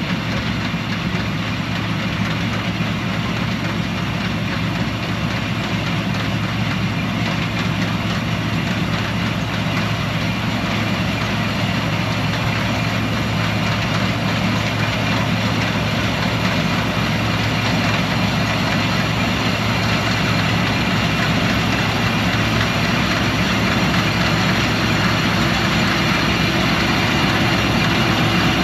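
Combine harvester running steadily, its engine hum under a dense mechanical noise, growing slowly louder.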